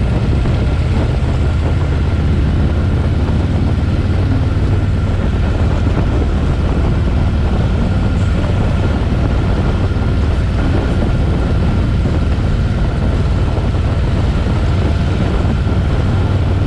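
Harley-Davidson V-twin motorcycle engine running steadily on the move, a constant low engine note with no pauses or sharp changes.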